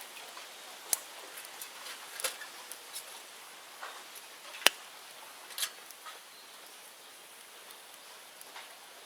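Bonfire of cleared bamboo and brush crackling: irregular sharp snaps and pops over a steady hiss, with the loudest pop about halfway through.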